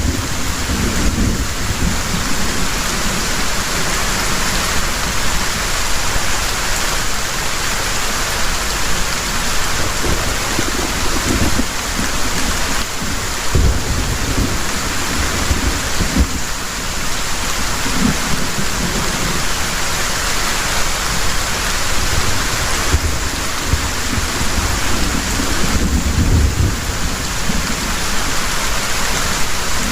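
Heavy rain pouring steadily, with several brief low thunder rumbles along the way.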